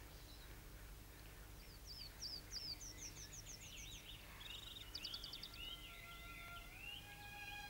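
Faint birdsong: runs of quick, high chirps and a rapid trill. Near the end, soft held string notes of music begin underneath.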